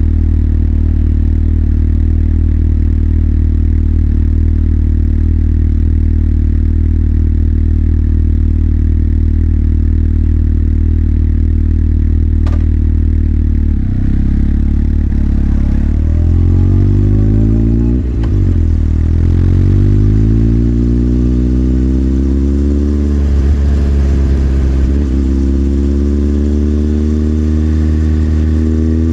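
Motorcycle engine idling steadily, then pulling away. Its pitch rises, dips briefly at a gear change, and climbs again as it accelerates. A single faint click comes just before it sets off.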